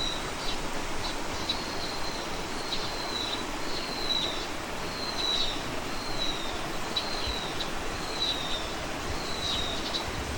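A small bird repeating a short, thin, high whistled note that slides slightly down in pitch, roughly twice a second, over a steady outdoor hiss.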